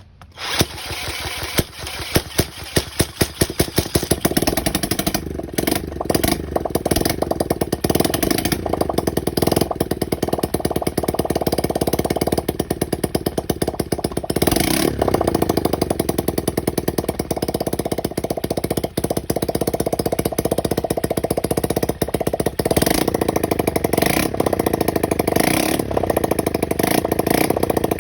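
Modified Honda Dax ST50 single-cylinder four-stroke engine, long left in storage, catching right at the start and then running with a fast, even firing beat, its throttle blipped up briefly a few times.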